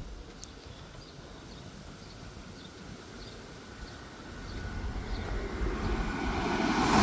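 An approaching train: a low rumble that builds steadily from about four seconds in and is loud by the end. Faint bird chirps repeat under it.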